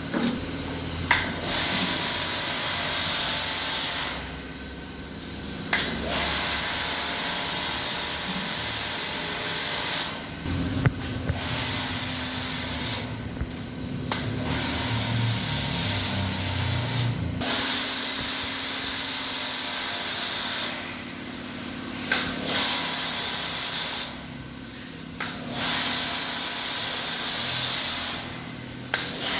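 High-pressure washer spraying the body of a car, in long hissing bursts of several seconds with short breaks between them as the trigger is released.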